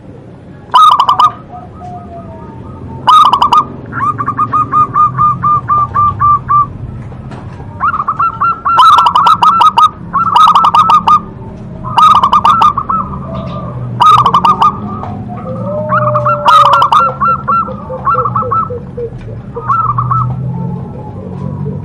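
Zebra dove (perkutut) singing: loud bursts of rapid, stuttering coo notes repeated every second or two, including a longer even run of notes about four seconds in.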